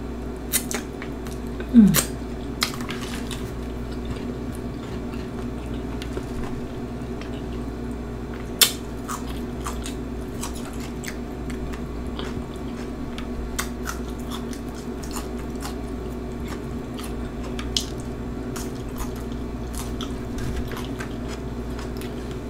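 Close-up chewing and crunching of Flamin' Hot Cheetos nachos, with scattered sharp crunches and mouth clicks over a steady low hum. The loudest crunch comes a little past the middle.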